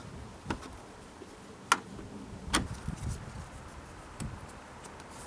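A few scattered sharp clicks and light knocks from hands refitting car parts, the loudest about a second and a half in.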